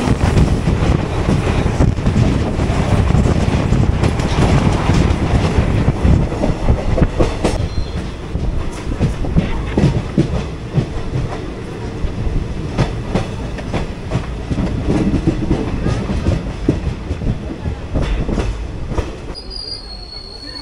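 Express train running on Indian broad-gauge track, heard from inside an ICF sleeper coach: a steady rumble of wheels on rail, with many knocks and clatters from rail joints and points. It grows somewhat quieter over the last several seconds.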